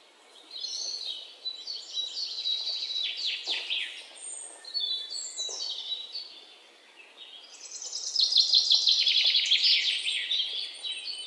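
Birds chirping and trilling in rapid runs of quick high notes: two long stretches, with a few shorter bursts between them.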